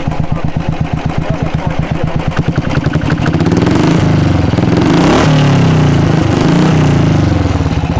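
Royal Enfield Thunderbird 350X's single-cylinder engine through an aftermarket double-barrel exhaust, loud. It thumps at idle, then is revved twice in quick succession, the pitch climbing and falling, and settles back to idle near the end.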